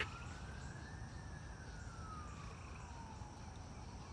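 A faint emergency-vehicle siren wailing, its pitch sliding slowly up and down: it climbs to a peak about a second in, falls for the next few seconds and starts to rise again near the end. A low background rumble lies under it.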